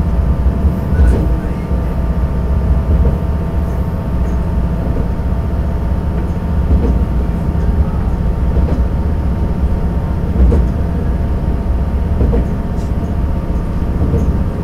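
Diesel railcar running along the track, heard from inside the car: a steady low engine and wheel rumble with a few faint clicks.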